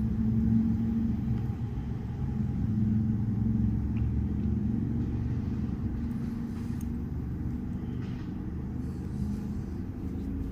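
A steady low mechanical rumble with a constant hum, fading slightly toward the end, with a few faint ticks.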